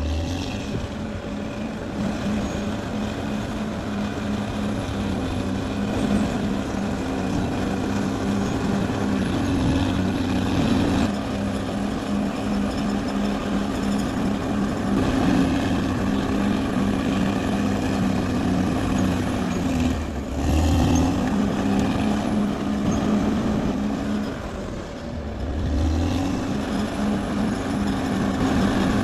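Caterpillar D6R XL bulldozer's diesel engine running steadily under working load. The engine note drops and picks up again about twenty seconds in and again near twenty-five seconds as the load changes.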